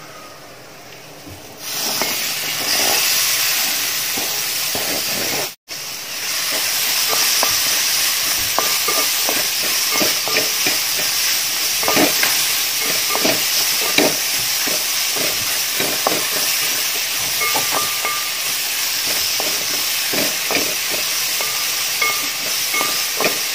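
Salted raw mango pieces sizzling in hot oil and chilli masala in a metal pan, a steady hiss that starts about two seconds in. A spoon stirs them through, scraping and knocking against the pan over the hiss.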